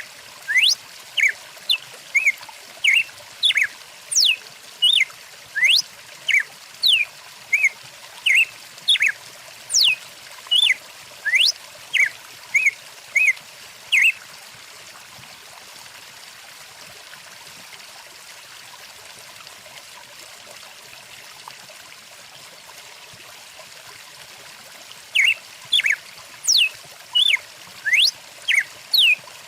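A small bird calls in a quick series of short notes sliding up and down in pitch, about two a second, over the steady rush of a flowing stream. The bird falls silent for about ten seconds midway, leaving only the water, and starts again near the end.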